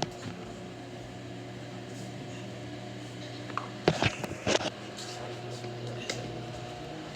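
Electric fan running with a steady motor hum. A few sharp clicks or knocks come about four seconds in.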